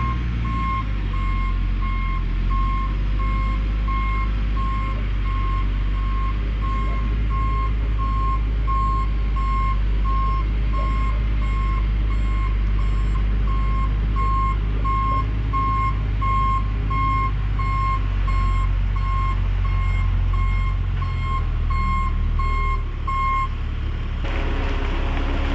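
Concrete delivery truck backing up: its reversing alarm gives steady, evenly spaced beeps over the low running of its engine. The beeping stops near the end.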